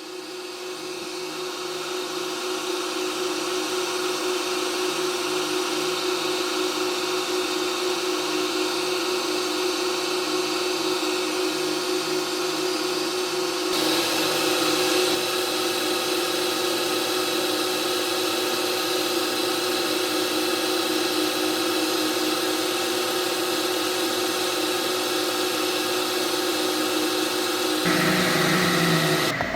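Electric machine-tool motor running steadily with a constant hum and whine, building up over the first few seconds, with its tone shifting slightly about halfway through and again near the end.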